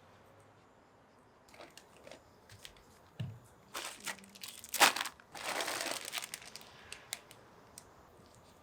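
Crinkling and rustling of something being handled, in short bursts with scattered ticks, loudest in the middle.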